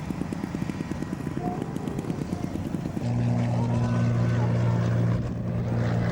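Piston engines of a propeller airliner running: a fast low pulsing, then a steady low drone from about three seconds in.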